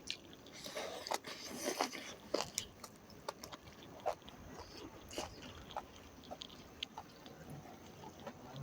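Close-miked eating sounds: a person chewing and biting into pork leg, with irregular small clicks of mouth and teeth.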